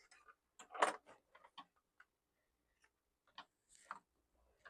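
Scattered light clicks and taps of small laptop parts being handled during a teardown, irregular rather than rhythmic, the loudest about a second in.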